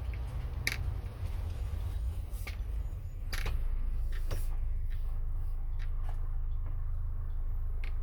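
Steady low rumble of a camper van driving on the road, heard from inside, with scattered sharp clicks and rattles at irregular moments; the rumble grows a little louder about three seconds in.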